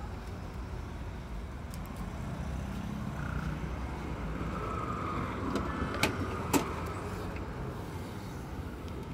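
Volvo XC90 engine idling steadily, with two sharp clicks about six seconds in.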